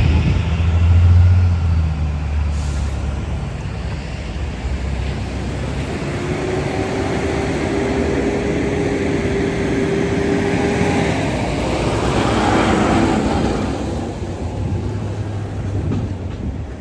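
Diesel transit bus passing with a loud low engine rumble at first, then road noise with a steady whine from about six seconds in and a brief hiss around twelve seconds.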